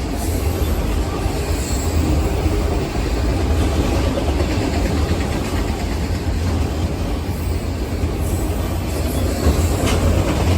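A train going by on the rails: a steady, continuous rumble of wheels and cars with no letup.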